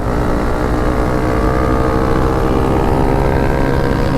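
Hawk 250 dual-sport motorcycle's single-cylinder engine at wide-open throttle, accelerating, its pitch climbing slowly.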